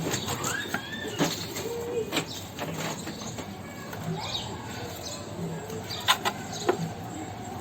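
Dry straw rustling with a few light knocks as eggs are handled and set into a straw-lined nesting box. Short bird chirps sound in the background.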